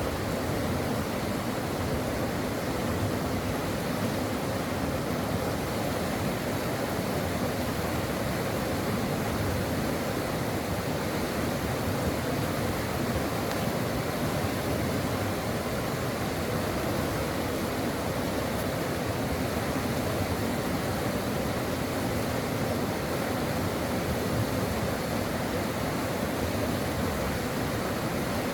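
Brook water running steadily, an even rushing with no breaks or changes.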